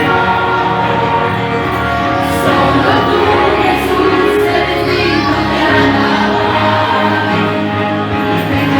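Christian worship song: a group of voices singing together over steady backing music.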